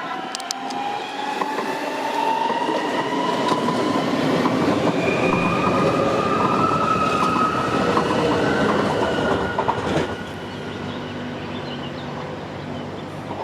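Electric train passing close by and picking up speed: its traction motors whine in several tones that rise steadily in pitch over the rumble of wheels on rail. The sound is loudest in the middle and falls off suddenly about ten seconds in.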